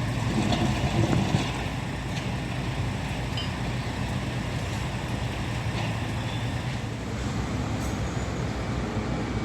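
Steady low rumble of vehicle engines, with a louder swell in the first second and a half and a few faint clicks.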